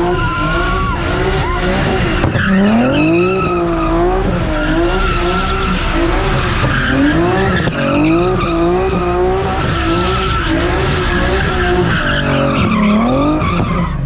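A car skidding with its tyres squealing and its engine revving, held for many seconds. The pitch rises and falls over and over, about once a second, as in a car spinning its tyres in repeated slides.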